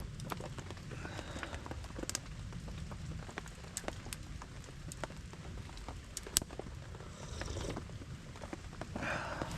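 Rain falling steadily, with scattered sharp ticks.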